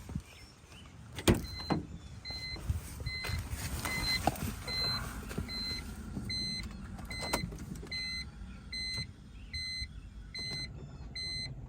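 A car's interior warning chime beeping steadily, about one and a half beeps a second, as when the door is open or the key is in the ignition before a cold start. A sharp knock comes just before the chime begins, with another click midway.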